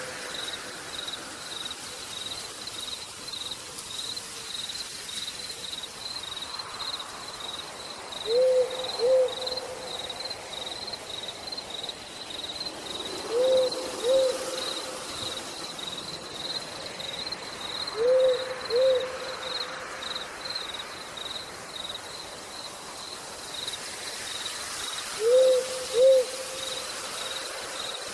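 An owl hooting in pairs of two quick notes, repeated about every five seconds. Underneath, a high insect chirp pulses steadily about twice a second over a faint hiss of rain.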